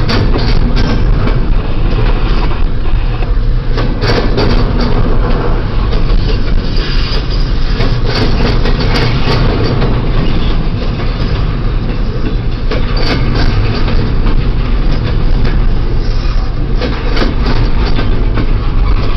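Freight train of double-stack intermodal well cars rolling past, a loud steady rolling noise of steel wheels on rail with irregular clicks as the wheels pass over rail joints.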